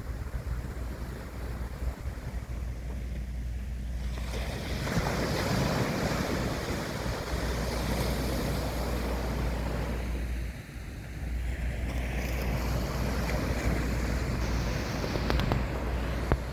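Sea waves washing and surging, swelling about four seconds in and easing briefly near the middle, with wind rumbling on the microphone.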